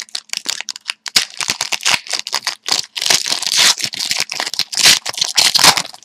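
Trading card pack wrapper crinkling and tearing as it is opened by hand: a dense run of crackles and sharp snaps, busiest in the second half.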